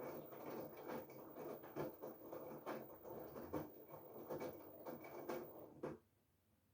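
LG Direct Drive 8.5 kg front-loading washing machine tumbling a load of laundry in its drum, an irregular soft patter and clatter. It stops abruptly about six seconds in as the drum pauses.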